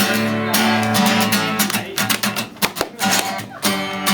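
Acoustic guitar strummed in a steady rhythm of chords, the opening of a song played live.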